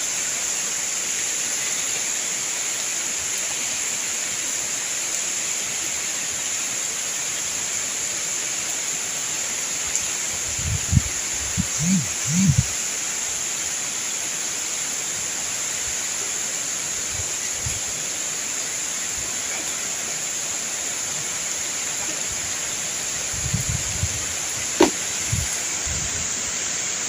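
Steady hiss of typhoon wind and rain through palm and forest trees. A few short low rumbles of wind buffeting the microphone come about ten seconds in and again near the end.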